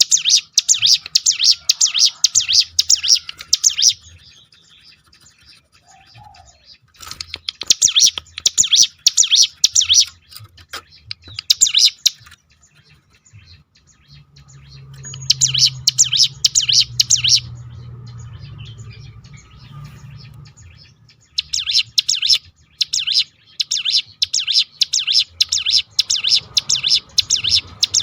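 Ciblek gunung (a prinia) singing its fast 'roll tembakan' song: bouts of rapid, sharp, high repeated notes, each bout a few seconds long with short pauses between. The longest bout comes near the end.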